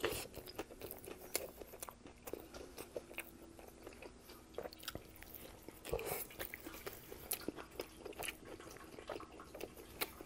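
Close-miked biting and chewing of a chicken teriyaki sub: a bite right at the start, then wet chewing with many small mouth clicks and soft crunches of bread and vegetables.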